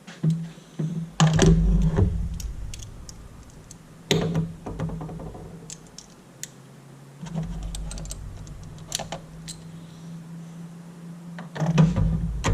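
Metal hand tools clicking, clinking and rattling, as of sockets, extensions and a wrench being handled and fitted, with a few heavier knocks. A steady low hum comes in about seven seconds in.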